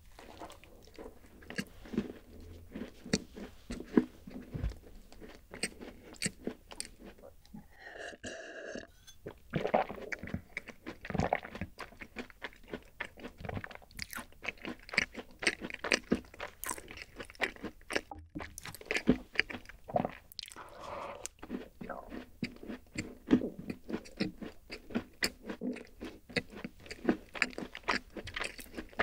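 Close-miked crunching and chewing of a chocolate rice-oat cookie: a dense run of crisp crackles and wet mouth sounds.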